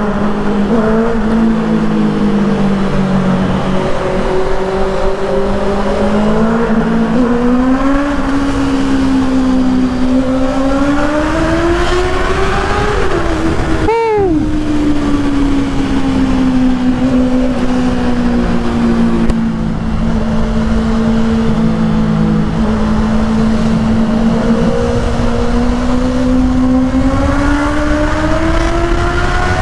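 Honda CBR650R inline-four engine through an aftermarket full exhaust with the dB killer still fitted, accelerating hard in a tunnel: the engine note climbs for several seconds, breaks off sharply about halfway through as the revs drop, holds steady for a long stretch, then climbs again near the end.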